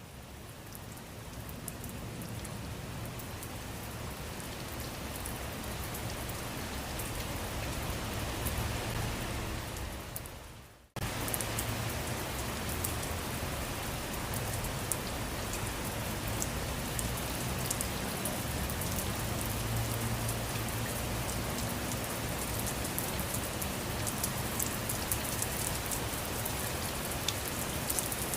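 Steady rain falling on surfaces, an even patter with fine individual drop ticks. It swells up over the first couple of seconds, fades and drops out for an instant about eleven seconds in, then cuts straight back to full rain.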